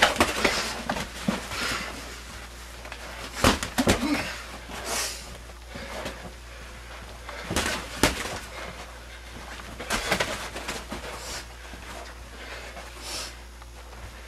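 A series of sharp hits and thumps at irregular intervals, in clusters of two or three, with scuffling and rushes of breath-like hiss between them, in a small room.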